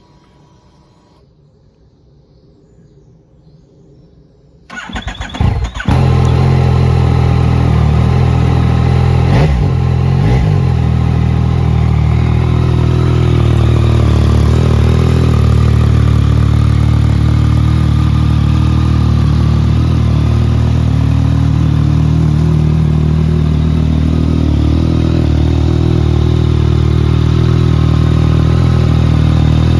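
2018 Yamaha MT-09's three-cylinder engine cranked on the electric starter for about a second and catching, then idling steadily. It is blipped twice a few seconds after it starts.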